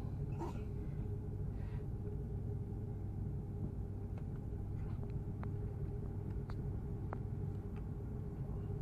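Steady low rumble and hum of an Airbus A330-300's cabin on the ground after landing, with a few faint short clicks and knocks scattered through it.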